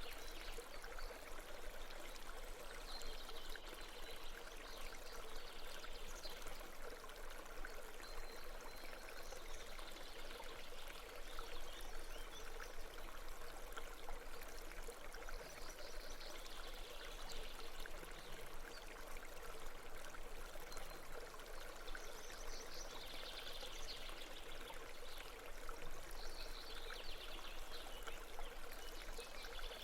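Steady babbling of a brook, water running over stones with a soft, even rush that swells a little every few seconds.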